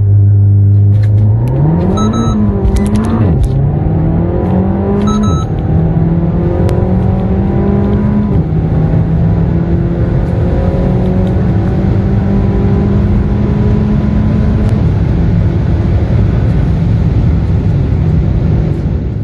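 Renault Mégane R.S.'s 1.8-litre turbocharged inline-four pulling hard under full throttle, its pitch climbing and dropping back at each of several gear changes.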